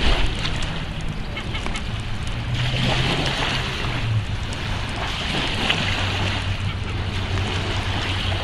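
Ducks quacking in a rough, overlapping chorus over a steady low hum.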